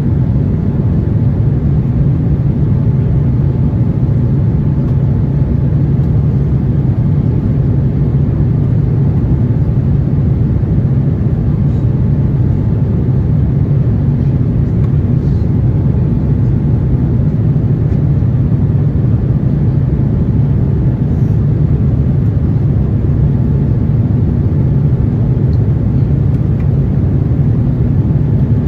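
Steady low cabin rumble of an Airbus A350-900 airliner in motion, engines and airflow blending into one even drone.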